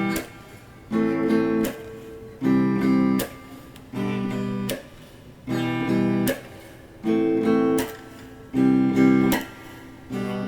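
Acoustic guitar strumming chords in a slow, even rhythm: one chord about every second and a half, each ringing briefly and then dying down before the next.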